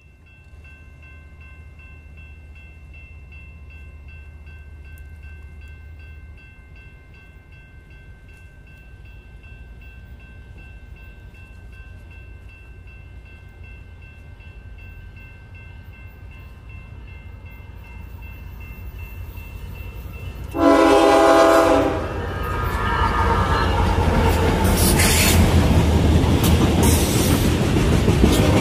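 A CSX-led freight train approaching and passing: a faint steady horn-like tone for about twenty seconds, then a loud blast of the locomotive's air horn about 21 seconds in, followed by the rumble and clatter of the locomotive and freight cars going by close.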